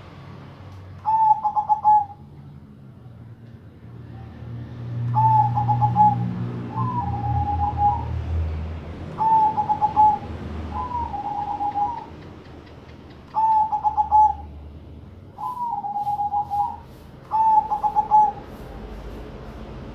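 Zebra doves (perkutut, Bangkok strain) cooing in a song contest: short rolling, stepped coo phrases about every one to two seconds, often two in quick succession as the birds answer each other.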